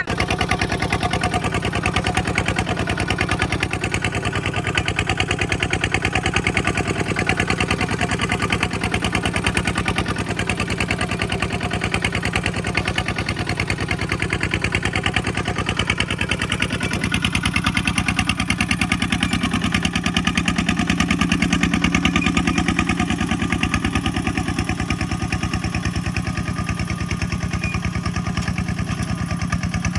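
Kubota tractor's diesel engine running steadily with an even, rapid firing beat; its tone shifts about 17 seconds in.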